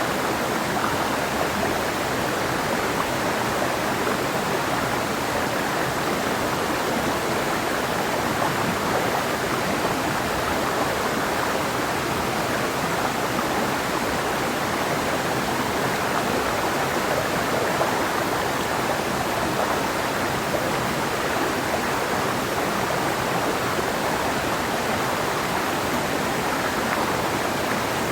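Clear mountain river flowing over rocks: a steady, even rush of water.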